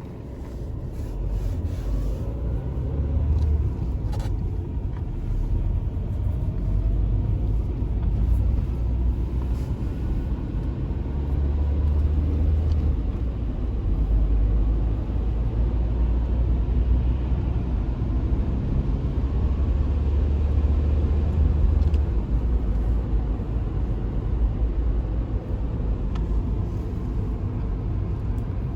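A steady low rumble that swells about a second in and then holds.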